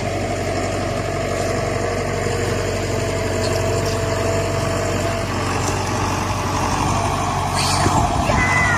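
A vehicle engine idling steadily, a constant low hum throughout, with a few brief high squeaks near the end.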